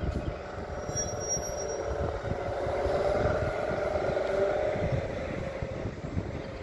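Heavy truck engine running, its pitch rising and then easing off in the middle, over a low rumble.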